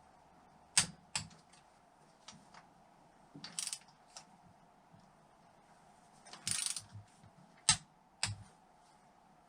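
Torque wrench tightening small engine-cover bolts to 10 Nm: sharp clicks about a second in and again near the end, with two short rattling bursts of ratcheting between.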